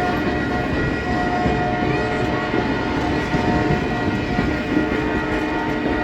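Canadian Pacific holiday train's cars rolling past: a steady rumble and clatter of wheels on rail, with a few faint steady high tones running over it.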